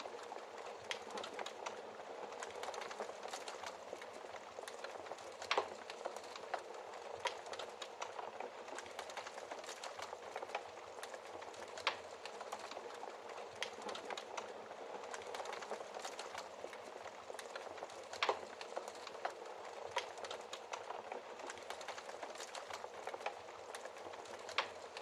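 Wood fire crackling steadily in a fireplace, a dense bed of small crackles and hiss with an occasional sharp, louder pop.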